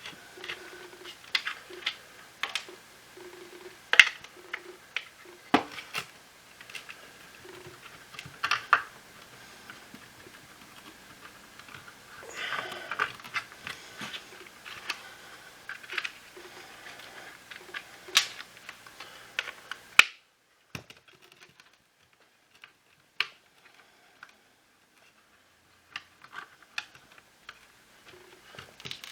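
Scattered sharp clicks and taps of plastic parts and tools being handled while a Shark cordless vacuum is taken apart, over a faint steady hum. About two-thirds through the hum stops suddenly, leaving only occasional clicks.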